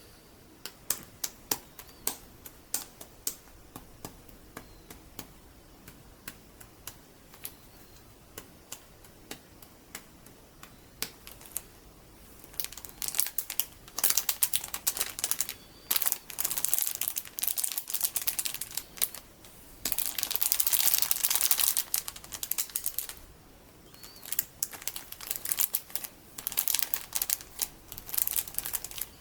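Metal fingertip covers tapping in scattered sharp clicks, then scratching and crinkling in dense bursts from about twelve seconds in.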